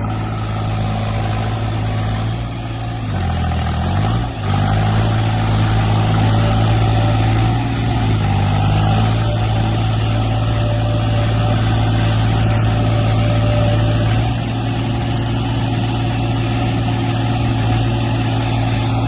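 Heavy diesel engine of a tractor or backhoe loader running steadily under load; its speed drops sharply about three seconds in and climbs back within a second or so, with a smaller dip near eight seconds.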